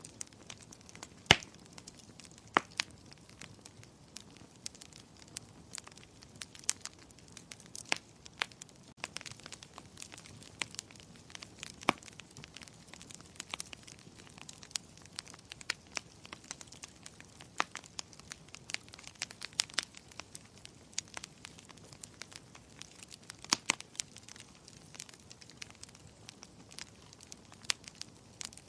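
Fire in a fireplace crackling: irregular sharp pops and snaps over a soft hiss, the loudest pop about a second in.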